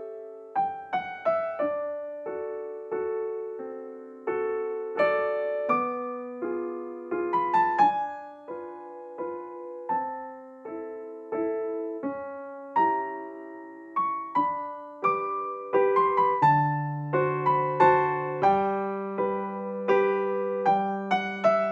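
Soft, slow solo piano music: gentle melody over chords, each note struck and fading, with lower bass notes joining after about sixteen seconds.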